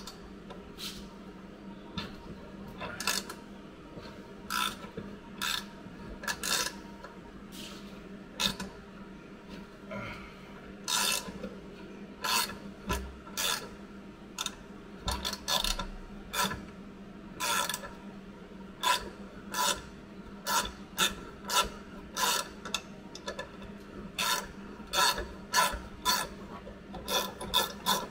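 Corroded car floor metal being scraped by hand in repeated rasping strokes, as with a file or wire brush cleaning back rust around the seat mount. The strokes are spaced out at first and come faster, about two a second, near the end.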